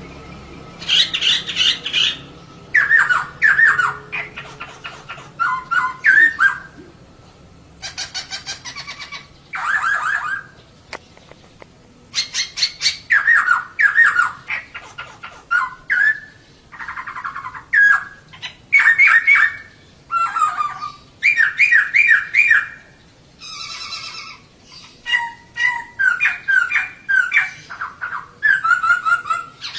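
Female poksay (laughingthrush) calling in repeated bursts of rapid chattering notes, each burst a second or two long, with short pauses between.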